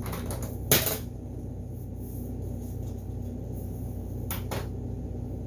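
Lighter clicking as a tobacco pipe is lit: a few light clicks at the start, one sharp click just under a second in, and two quick clicks near the end, over a steady low hum.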